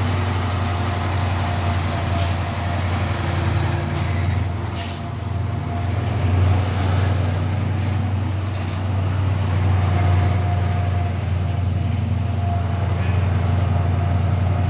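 Heavy diesel truck engine running steadily, with a brief sharp hiss about five seconds in.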